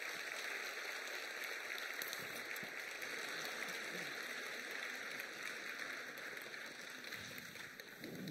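Recorded sound effect of steady rain, an even hiss of falling drops that cuts off abruptly near the end.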